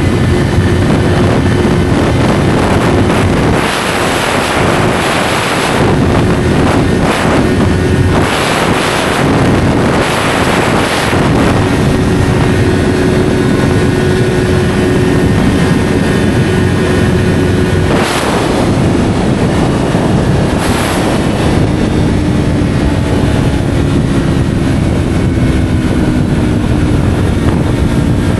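Yamaha R3 motorcycle with an SC Project slip-on exhaust, its parallel-twin engine running steadily while riding, with several gusts of rushing wind noise. The engine note eases down in pitch over the last few seconds.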